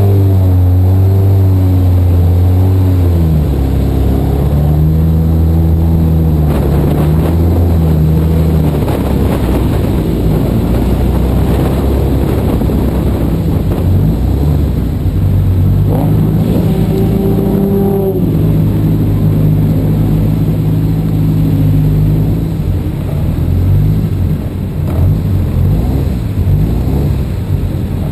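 Car engine idling and running at low speed, loud and close, heard from a camera mounted on the car's door. The pitch shifts a few times as it moves off and creeps forward, with a short rise in revs about sixteen seconds in.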